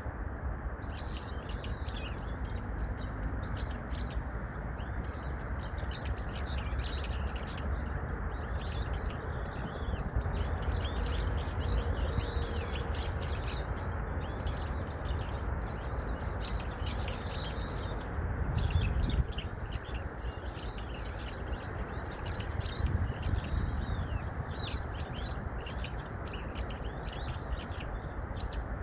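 Small songbirds chirping and twittering, many short high calls overlapping throughout, over a steady low background rumble.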